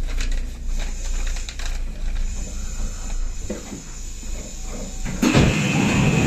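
Stationary electric train at a station platform with its doors open: a low steady hum with scattered clicks and knocks. About five seconds in, a louder sound sets in with a steady high tone.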